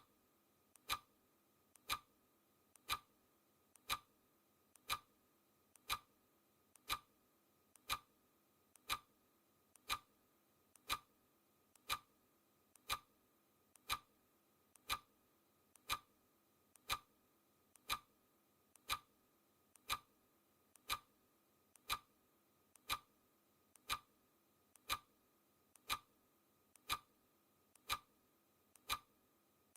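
Clock ticking steadily, one sharp tick a second, each with a faint softer click just before it.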